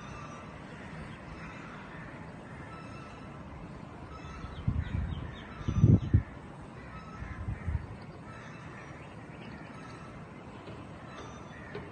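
Birds calling, with faint short chirps throughout. Three short low rumbling bursts come near the middle, the second one loudest.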